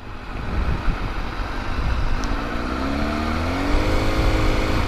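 Kawasaki ZX-6R sport bike's inline-four engine heard under a steady rush of riding wind on the helmet camera; about two seconds in the engine note starts rising as the bike accelerates, then levels and eases off near the end.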